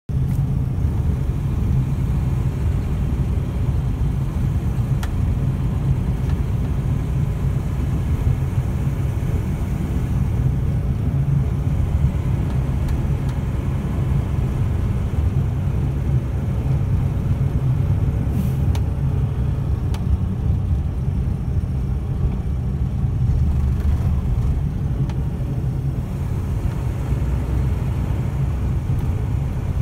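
Snowplow truck running steadily, a continuous low rumble of engine and road noise that neither rises nor falls.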